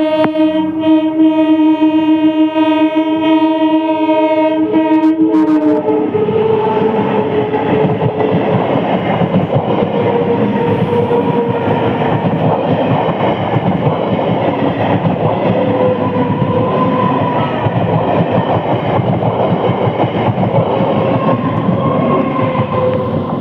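Indian Railways train sounding one long, loud horn blast for about five seconds, then rushing past the level crossing with steady wheel and rail noise for the rest, fading near the end.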